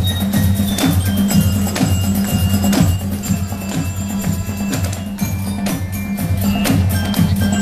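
Marching showband playing: drums and percussion keep a steady beat over a repeating low bass figure, with sharp strokes and some bell-like notes.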